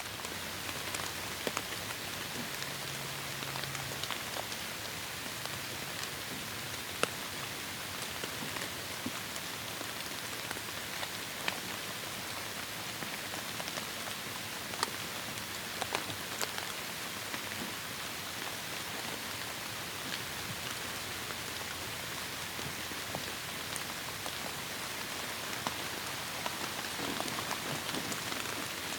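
Heavy rain falling steadily in a forest: an even, dense hiss of rainfall with scattered sharper drop hits standing out from it.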